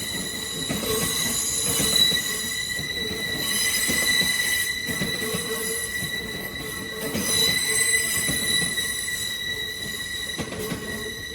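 Departing passenger train's wheels squealing on the track, a steady high-pitched squeal held over the rumble of the train moving off. The squeal swells and eases a few times.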